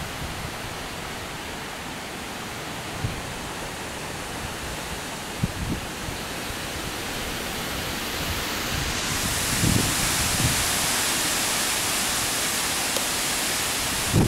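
Heavy thunderstorm rain pouring steadily, growing louder and harsher about nine seconds in as the downpour intensifies. A few brief low thumps of wind gusts hit the microphone.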